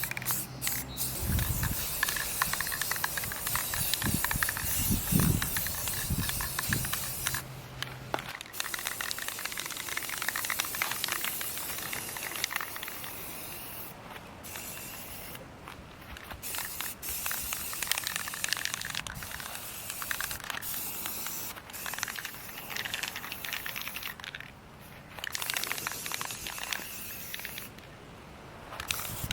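Aerosol spray-paint can hissing in long bursts with several short breaks between them, as paint is sprayed onto the wheelbarrow.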